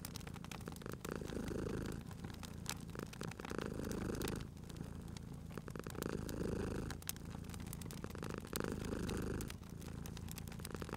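A cat purring steadily, swelling and easing with each breath about every two to three seconds. A wood fire's scattered crackles and small pops sound over it.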